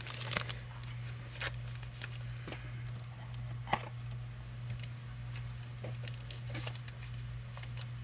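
Trading card pack being handled and torn open: scattered crinkles, rips and card-handling clicks over a steady low electrical hum.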